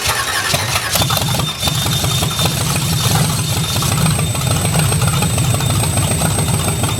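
Freshly assembled V8 engine running after its first start, with a rapid, steady firing pulse and a thin high whine that begins about a second in.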